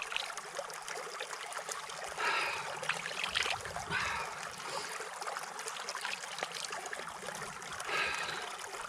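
Shallow creek water trickling and flowing steadily, with a few short louder bursts of noise over it, about two, three, four and eight seconds in.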